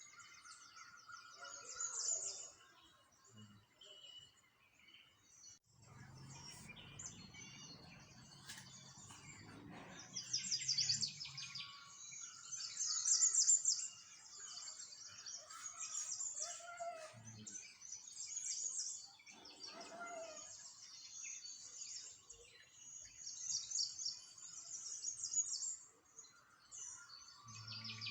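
Small songbirds chirping and trilling, many high quick chirps and rapid trills overlapping, with a few lower whistled notes. A faint low hum sits underneath for several seconds partway through.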